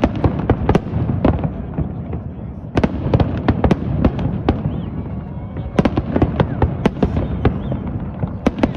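Fireworks display going off: many sharp bangs and crackles coming in quick clusters, about a second apart, over a steady low rumble.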